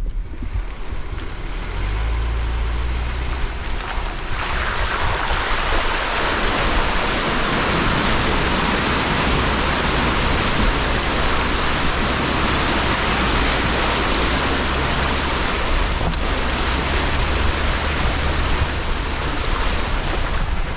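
Jeep Gladiator crawling along an off-road trail through a wet stretch. The engine hums low and steady, and from about four seconds in a dense, steady rush of water being churned by the tyres comes up.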